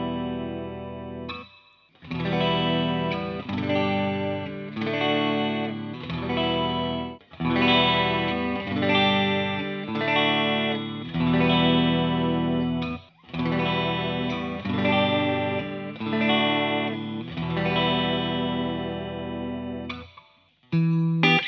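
Electric guitar, a Fender Telecaster on its middle pickup position, played through a Behringer Chorus Orchestra chorus pedal into a Fender Blues Junior tube amp. Chords are strummed and left to ring for one to two seconds each, in phrases broken by short pauses, with a couple of quick chord stabs near the end.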